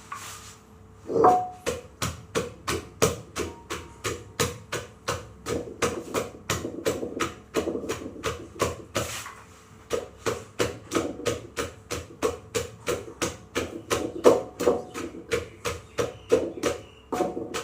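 Pestle pounding steadily in a mortar, about three strokes a second, for a Thai-style pounded salad.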